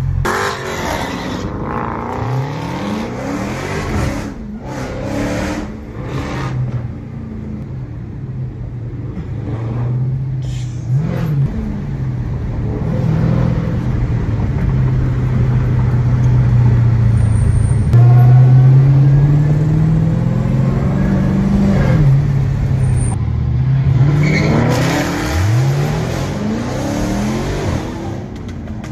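Muscle-car V8 engine heard from inside a car's cabin, droning steadily at cruise and revving up under hard acceleration a few times: a couple of seconds in, around ten seconds, and most strongly around twenty-five seconds.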